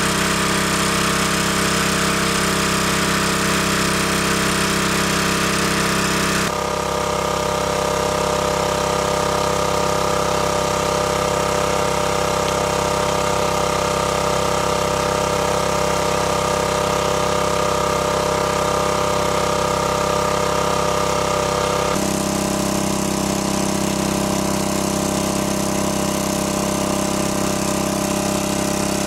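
A motor running steadily, a constant mechanical hum whose tone changes abruptly twice, about six seconds in and again about 22 seconds in.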